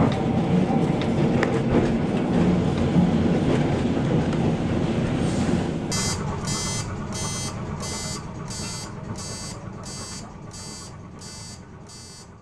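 Vintage tram running with a steady rumble that slowly dies away. About halfway through, a sharp ringing signal starts and repeats evenly about one and a half times a second.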